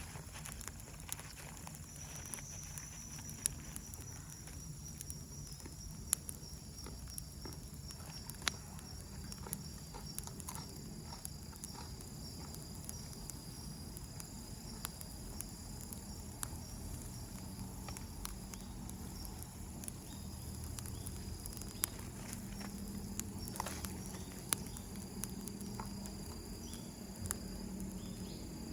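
Wood campfire crackling, with scattered sharp pops and snaps at irregular intervals over a low steady rumble.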